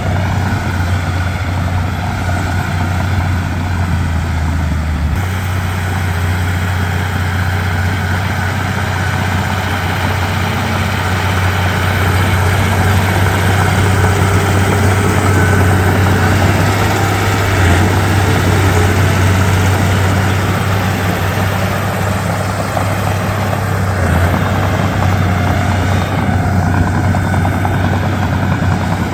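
Komatsu D31P bulldozer's diesel engine running steadily with a deep drone, growing somewhat louder in the middle stretch.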